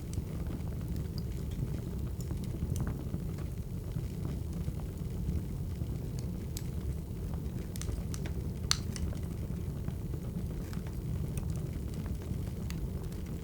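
Wood fire crackling: a steady low rumble with scattered sharp pops and snaps, the loudest pop about two-thirds of the way through.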